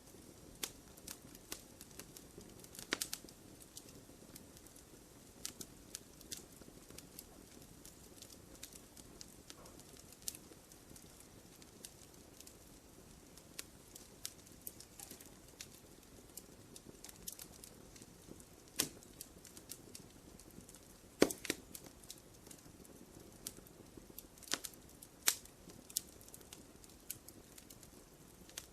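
Wood fire crackling in a fireplace: irregular sharp snaps and pops over a soft low hiss of burning, with a handful of louder pops scattered through, the loudest about two-thirds of the way in.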